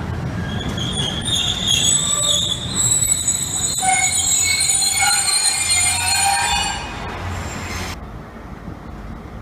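A train's wheels squealing on the rails, several high shrill tones wavering together over the low rumble of the moving train. The squeal cuts off suddenly near the end.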